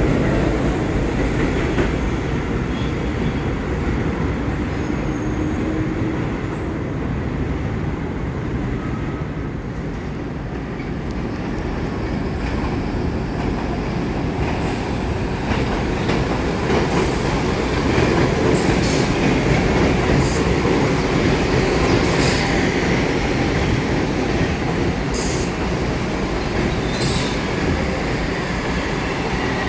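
New York City Subway train running along the track in a continuous steady rumble. A series of sharp wheel clicks comes over the rail joints in the second half, with some wheel squeal.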